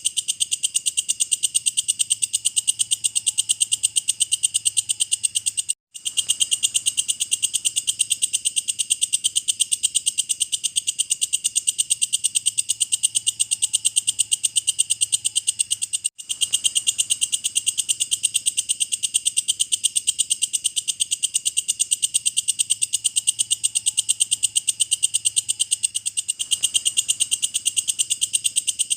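Walang kecek bush cricket singing: a loud, rapid, even train of sharp, high-pitched chirps. The song breaks off for an instant about six seconds in and again about sixteen seconds in, then carries straight on.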